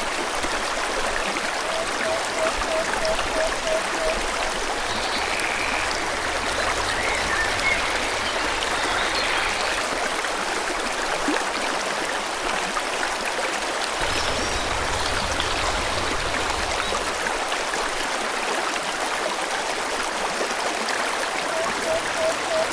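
Stream water flowing steadily over rocks, with birds calling: a quick run of about eight short, low, evenly spaced notes about two seconds in and again near the end, and a few faint higher chirps in between.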